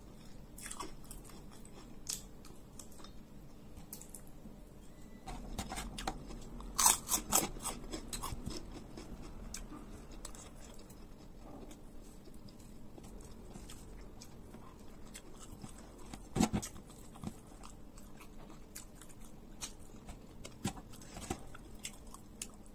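Close-up chewing and mouth sounds of a person eating tiwul (steamed cassava rice) and spicy tongkol fish by hand. There is a burst of louder crunching clicks about seven seconds in and a single loud one about sixteen seconds in.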